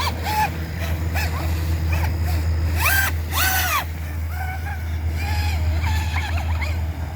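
TFL Hobby 1151 RC jet boat's electric motor and jet drive whining in repeated throttle bursts, the pitch rising and falling each time, the longest and loudest burst about three seconds in. A steady low rumble runs underneath.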